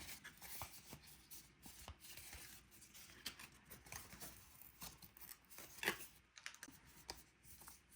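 Faint rustling and light taps of cardstock being handled on a work surface, with one slightly louder rustle near the middle.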